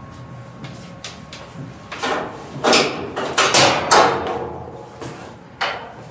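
An old high-pressure car wash hose being pulled out, making a run of loud scraping, sliding noises, most of them clustered between about two and four seconds in, and one more near the end.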